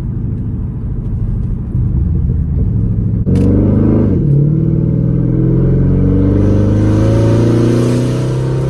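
2012 Dodge Charger SRT8's 6.4-litre HEMI V8 through a straight-piped exhaust, cruising, then opening up about three seconds in: the engine note jumps and climbs steadily under hard acceleration, easing off near the end.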